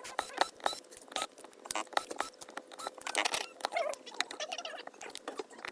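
Irregular small clicks, taps and scrapes of metal repair tools working on a disassembled iPhone 8 Plus, with a faint steady hum underneath.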